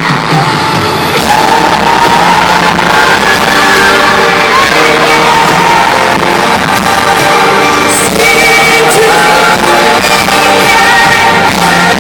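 Live pop ballad in an arena: a female lead singer sings long held, gliding notes over the band, with shouts and yells from the audience.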